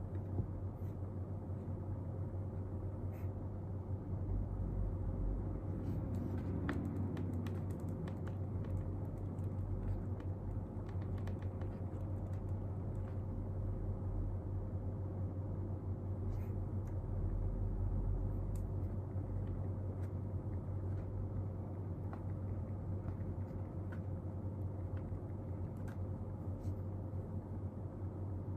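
Steady low hum of room background noise with a faint constant tone, and scattered faint small clicks and taps, a cluster of them about seven seconds in.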